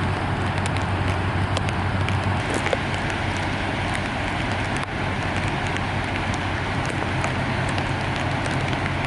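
Steady rushing noise of fast-flowing flood water, with scattered small crackles and a steady low hum underneath.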